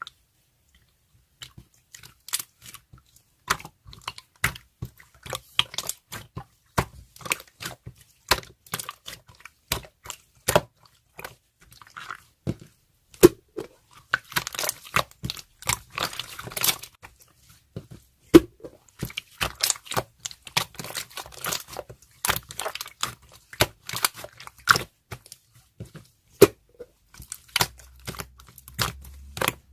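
Irregular crinkling, tearing and sharp clicking of wrapping material being handled close up, thickening into two longer crackly stretches midway and later on.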